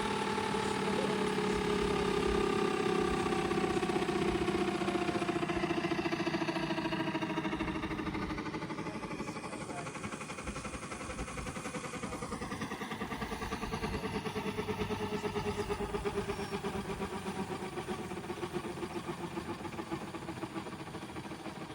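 Turbine-powered RC scale helicopter in flight: a steady turbine whine and rotor drone that slide down in pitch over the first several seconds, then grow fainter as a thinner whine climbs slowly again.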